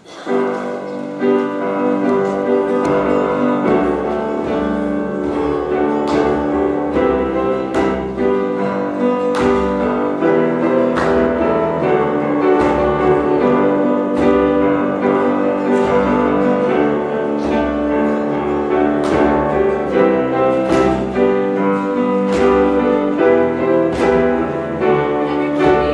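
Piano playing a hymn introduction in steady chords, struck about once a second.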